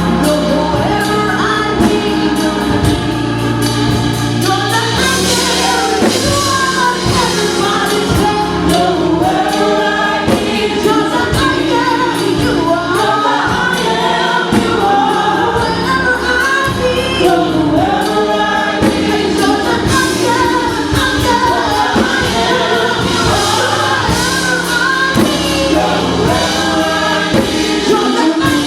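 Gospel worship music: a choir singing over a band with bass and drums, at a steady level.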